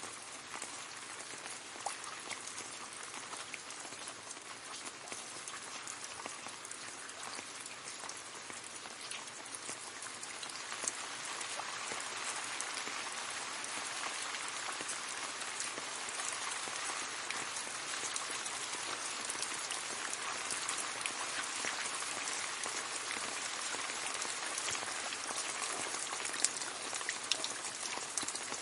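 Gentle rain falling on leaves: a steady patter of many small drops, with single drips ticking out here and there. It grows a little heavier about ten seconds in.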